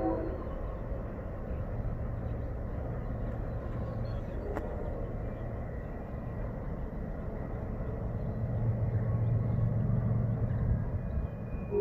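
Low, steady rumble of an approaching diesel freight train, growing louder over the last few seconds.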